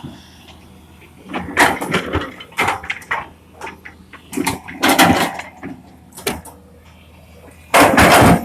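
Excavator at work: a steady low engine hum under irregular loud clanks and scrapes, the longest and loudest near the end.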